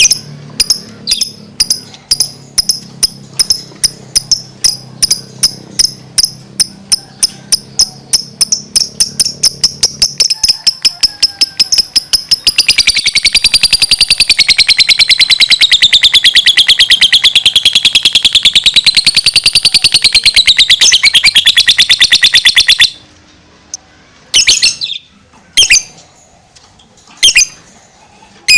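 Lovebird singing: sharp high chirps repeated faster and faster, running into one long rapid trill about ten seconds long that wavers up and down in pitch, then stops suddenly, followed by a few single chirps.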